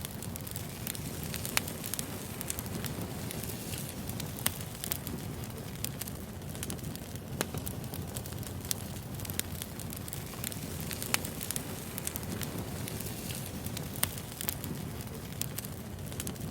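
Wood fire burning, with a steady low rumble of flames and irregular crackles and sharp pops of burning logs.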